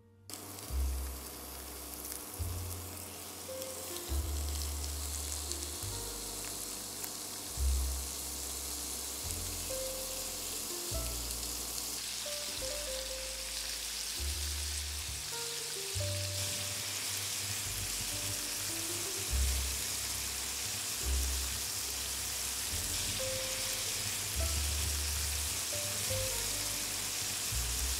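Raw shrimp frying in hot oil in a frying pan: a steady sizzling hiss that starts as the first shrimp go in and keeps on as more shrimp and whole garlic cloves are added. Soft background music plays underneath.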